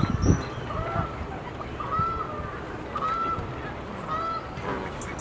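Whooper swan calling repeatedly, a series of short pitched calls about once a second. A low rumble sits under the first call.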